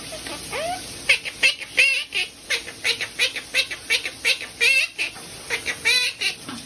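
A small pet bird chirping rapidly: a string of short warbling chirps, about four a second.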